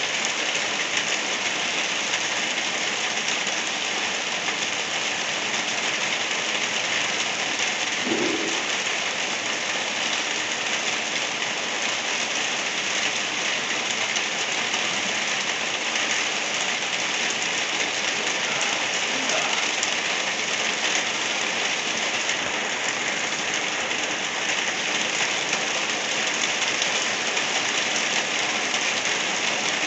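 Light rain falling steadily, an even hiss of drops on surfaces with no let-up.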